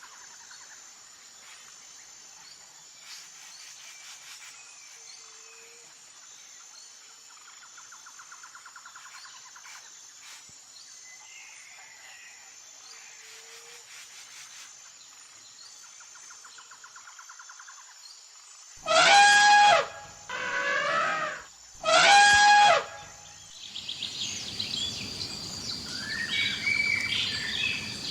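Jungle ambience of insects trilling and birds chirping, faint at first. About two-thirds of the way through, an animal gives three loud, drawn-out calls in quick succession, each about a second long, followed by a busier chorus of bird chirps.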